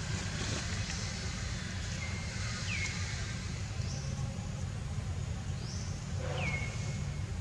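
Outdoor ambience: a steady low rumble, with a bird calling twice, each call a quick downward swoop into a short held note.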